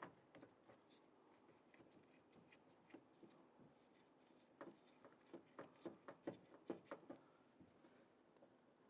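Faint small clicks and ticks of a Phillips screwdriver loosening and backing out a screw on a car door lock actuator, bunched together in the middle.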